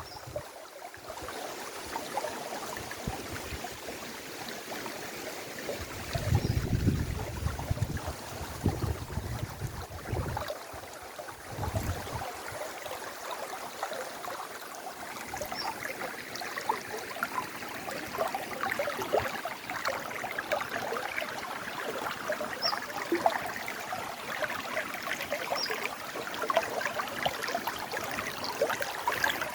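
River water flowing steadily, the rushing sound growing fuller from about halfway through. Low rumbles of wind on the microphone come between about six and twelve seconds in.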